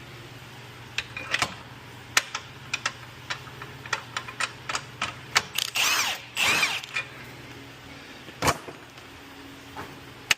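Metal hand tools clicking and clinking irregularly against car suspension hardware during a lower control arm replacement, with two short rasping bursts about six seconds in. A faint steady low hum runs underneath.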